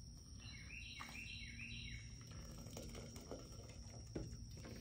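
A bird calling in the background: four quick notes in a row, each sliding downward in pitch. A couple of faint knocks follow later.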